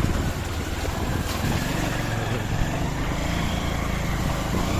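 220 cc motorcycle engine running steadily while riding a steep, rough dirt track, a little louder near the end.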